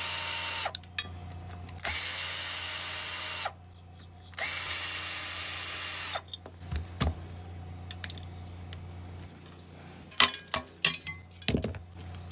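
Power drill running in three short bursts, each a second and a half to two seconds long with a steady whine, backing out small 1/4 inch screws from a mower engine part. In the second half there are scattered metal clicks and knocks as the screws and parts are handled.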